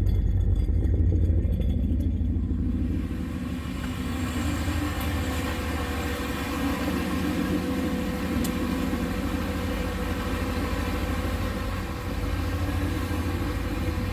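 Turbocharged 6.0-litre LS V8 idling steadily. It is louder for the first few seconds, then drops to a quieter, even hum.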